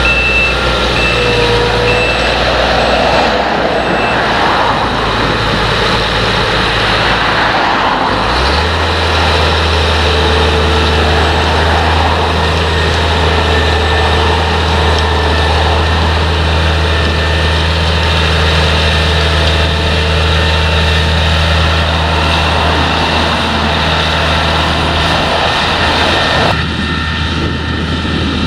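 Potato harvesting machinery running steadily: tractor and harvester diesel engines with the harvester's working noise. A reversing alarm beeps in the first couple of seconds, and the engine note changes about eight seconds in.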